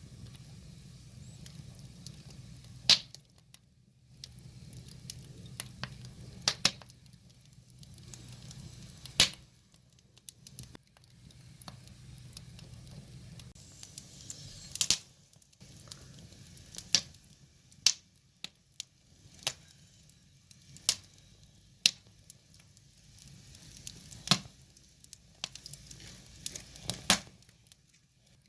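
Wood fire burning: a soft hiss with sharp crackles and pops from the burning logs every second or two.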